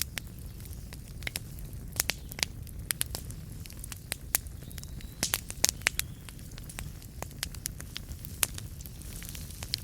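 Wood fire crackling in a fireplace: irregular sharp pops and snaps over a steady low rumble of the flames, with a quick run of pops about five to six seconds in.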